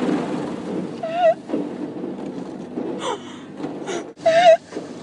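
A woman shrieking inside a car in an automatic car wash: two high, wavering squeals, about a second in and about four seconds in, with a shorter cry between them. The wash's water and machinery hiss steadily underneath.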